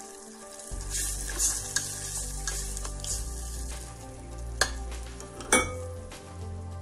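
Tomato-and-soy sauce sizzling in a stainless steel pot while a spatula stirs it, with two sharp clinks of the spatula against the pot about a second apart past the middle. A low steady hum comes in under it less than a second in.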